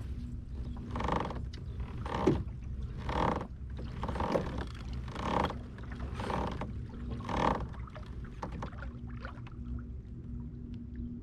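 Kayak paddle strokes through the water: about seven even splashing swishes, roughly one a second, that stop about eight seconds in.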